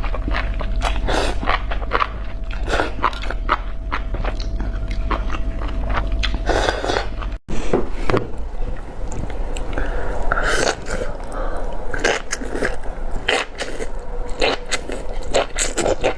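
Close-miked chewing and biting of spicy enoki mushrooms: a dense, irregular run of small clicks and mouth smacks. About seven seconds in the sound cuts out for an instant and resumes, and a low hum heard before the cut is gone after it.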